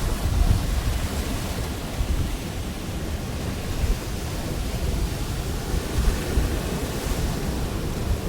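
Pacific Ocean surf washing onto the shore in a steady rush, with wind buffeting the microphone in uneven low rumbles.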